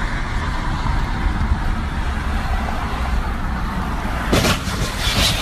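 Steady road-vehicle noise with a low rumble, with two short sudden noisy flares about four and five seconds in.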